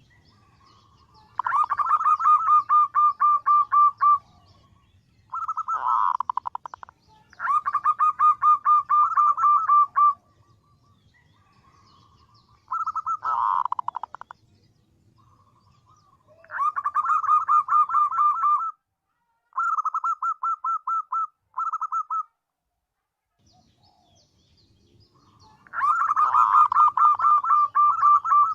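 Female zebra dove (perkutut) call: about seven phrases of quick staccato cooing notes in a rapid rolling series, each lasting a second or two, with short pauses between them. This is a lure call meant to draw in males.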